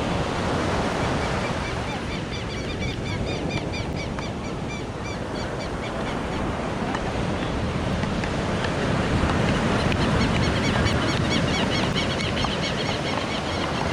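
Ocean surf washing steadily onto the beach, with wind on the microphone. A rapid series of short, high chirps, about four a second, runs for a few seconds near the start and again in the second half.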